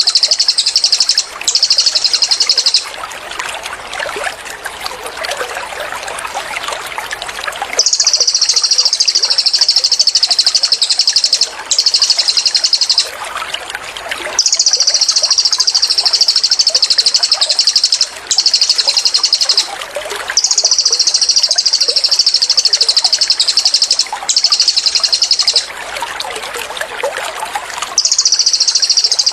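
Cililin song: high, very rapid rattling trills in bursts of one to several seconds with short breaks, over trickling water. The water is heard alone in two longer pauses, one a few seconds in and one near the end.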